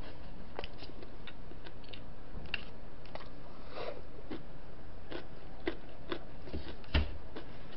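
Close-miked chewing and wet mouth smacks as soy-braised chicken and flat glass noodles are eaten, with a short sip from a cup about four seconds in and a dull knock near the end.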